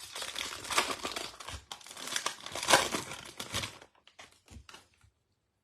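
Foil trading-card pack wrapper crinkling as it is torn open, a dense crackle for about four seconds, then a few faint ticks of handling.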